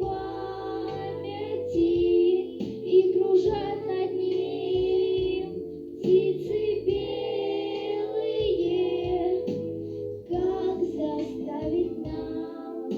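A song: a high, child-like voice singing a melody over a backing track with a bass line.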